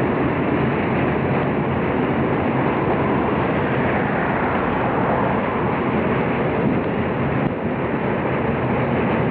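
Freight train of car-carrier wagons rolling past with a steady rumbling noise.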